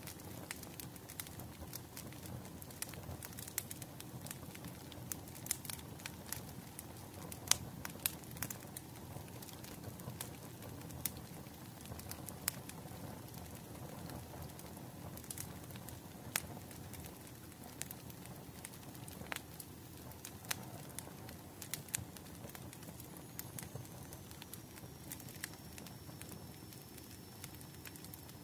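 Wood burning in a bonfire, crackling steadily with sharp irregular pops and snaps over a low rumbling hiss. A faint high whistle comes in near the end.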